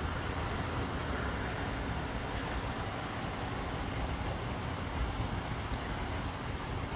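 Steady low rumble with an even hiss over it, with no distinct events.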